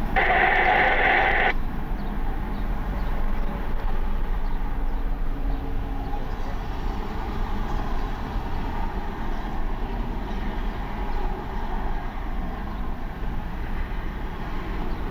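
Jet airliner engines running, a steady low rumble with wind noise, after a brief loud hiss in the first second and a half.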